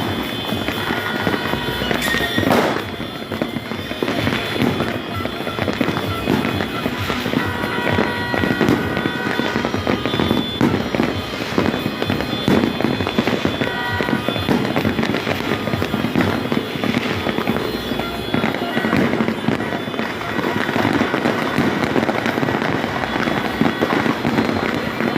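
Dense fireworks going off continuously: rapid overlapping bangs and crackling with no pause.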